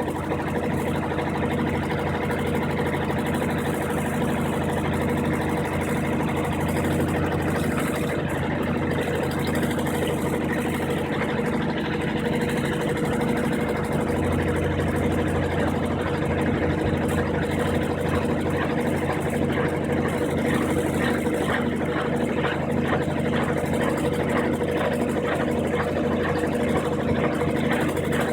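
Brastemp 15 kg washing machine running its spin cycle with the drain pump switched off: a steady motor hum with a faint regular pulse, growing a little deeper about halfway through.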